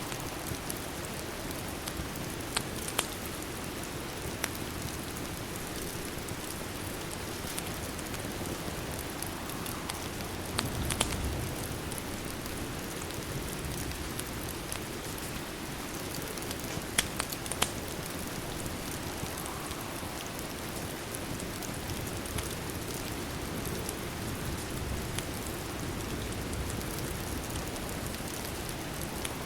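Steady rain mixed with fireplace ambience, an even hiss of falling rain with a few sharp crackling pops scattered through.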